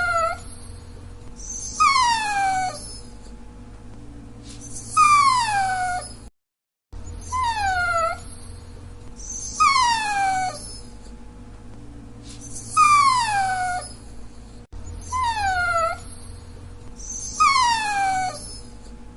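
Dachshund whining: a series of high, drawn-out whines, each about a second long and sliding down in pitch, repeating every two to three seconds.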